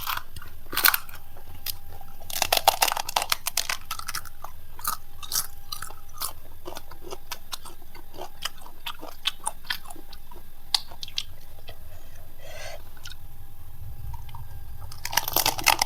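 Crunching and chewing of panipuri (fuchka): crisp puri shells cracking between the teeth in quick clusters, thickest about two to four seconds in and again near the end.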